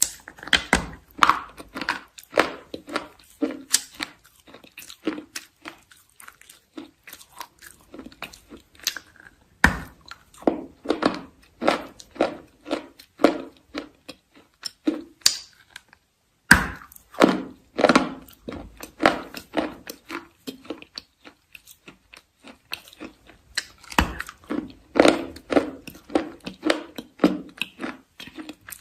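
Close-up crunchy biting and chewing: a sharp bite about ten seconds in, again about sixteen seconds in and again near twenty-four seconds, each followed by a run of crunching chews at about two or three a second.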